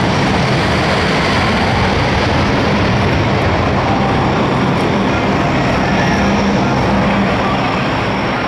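Aircraft engine noise, loud and steady, with a low droning hum under it.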